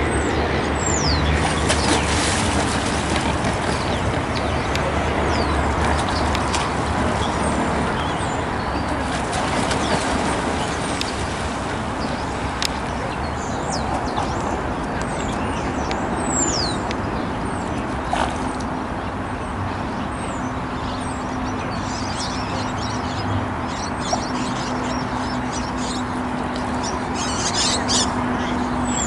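Outdoor ambience: a steady wash of background noise with scattered high, downward-sliding bird chirps, a cluster of them near the end. A steady low hum joins about two-thirds of the way through.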